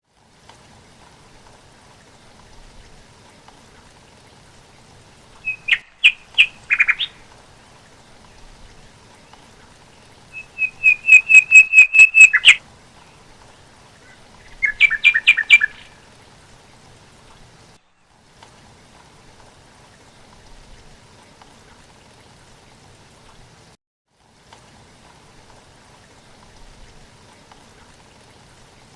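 A bird calling in three bursts of rapid repeated notes, the first a few seconds in, the middle one the longest and loudest, over a faint steady background hiss.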